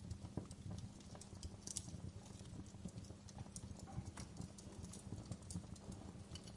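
Fireplace fire crackling: frequent irregular pops and snaps over a steady low rumble of the flames.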